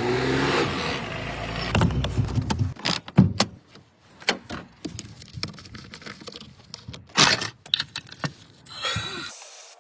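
A low hum for nearly three seconds, then a run of sharp metallic clicks and clanks at irregular intervals, loudest just after three seconds and again about seven seconds in.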